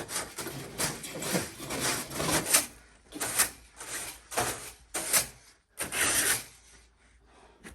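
Rough rasping or scraping strokes, close together at first, then four separate strokes about a second apart.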